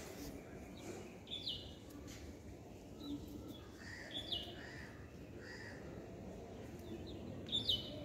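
Small birds chirping: short high chirps every second or two, with a few softer, lower calls in the middle, faint over a steady outdoor hush.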